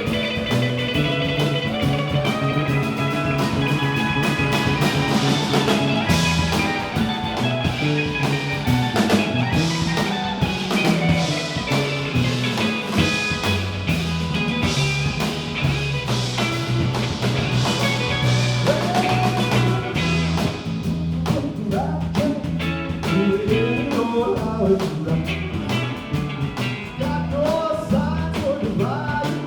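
A live rock band playing a guitar-led instrumental passage, with a steady bass line under it and drum hits throughout. In the last third the lead line slides and bends in pitch.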